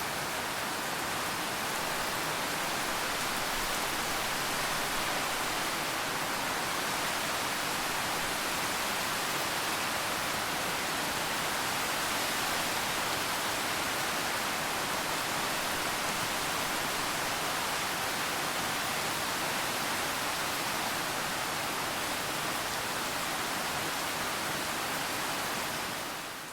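Steady rain, an even hiss with no separate drops standing out, fading out at the very end.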